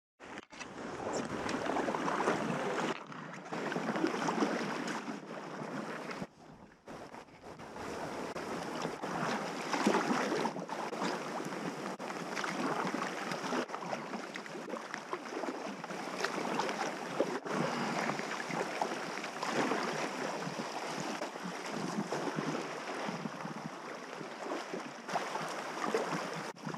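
Rushing, splashing river water around a packraft on a fast-flowing river, a dense steady wash with irregular surges, broken by a few brief drops.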